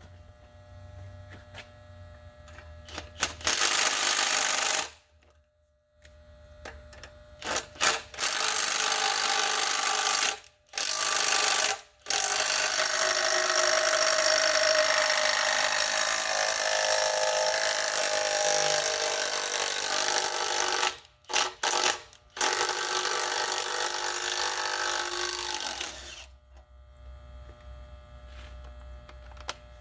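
Handheld power tool run in repeated bursts, the longest about nine seconds near the middle, each starting and stopping abruptly. It is being used to take bolts off an engine during teardown.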